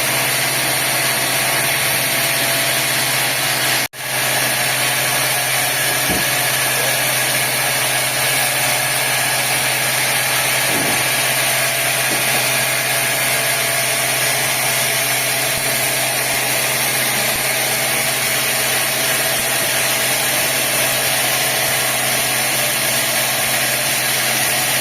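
Sawmill machinery running steadily: an even engine hum with a constant hiss over it, broken by a very brief cut in the sound about four seconds in.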